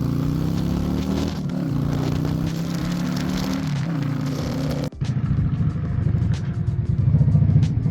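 Yamaha V-Star 650's V-twin engine running as the motorcycle is ridden on a test run, its pitch rising and falling with the throttle. A sudden break comes about five seconds in, followed by a close, lumpy low-rpm pulsing of the engine.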